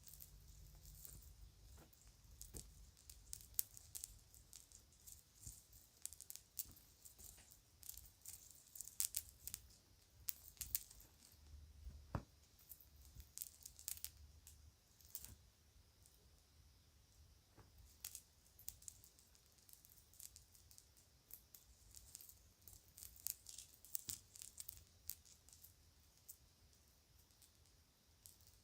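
Quiet, irregular crinkling of plastic bags and small clicks of children's plastic jewelry being handled, in many short rustles and taps.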